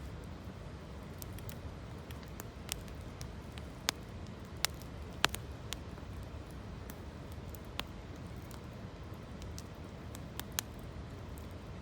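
Wood campfire of gathered branches crackling, with scattered sharp pops, a few loud ones in the middle and one near the end, over a steady low rush.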